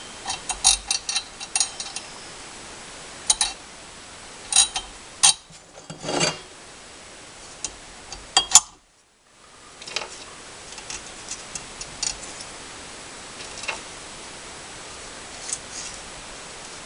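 Scattered sharp metallic clicks and taps from hand tools and metal parts being handled, with a brief dropout about nine seconds in.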